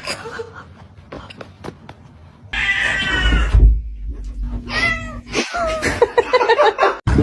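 A cat meowing: a long, loud meow starts about two and a half seconds in, followed by more meows that bend up and down in pitch.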